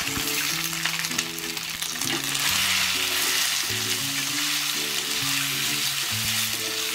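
Steamed rice-flour dumplings sizzling steadily in a kadai of hot sesame-oil tempering as they are tipped in and stirred with a wooden spatula, over soft background music.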